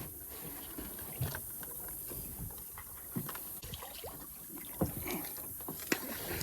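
Scattered light knocks and clatter of gear being handled on a jon boat, a few sharp taps over a faint steady hiss.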